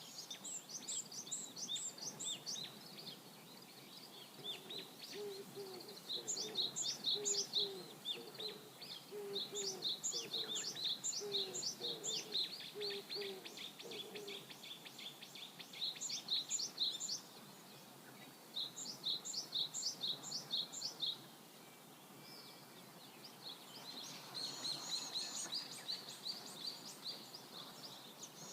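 Birds singing over a faint, steady hiss of river water. A songbird repeats a quick phrase of high, trilled notes every few seconds, and a run of lower, evenly spaced calls joins it through the middle.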